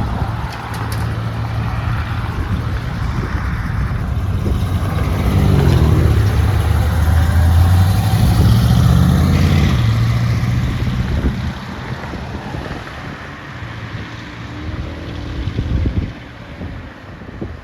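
A car engine running, its note dipping and then rising. It is loudest around the middle and then fades.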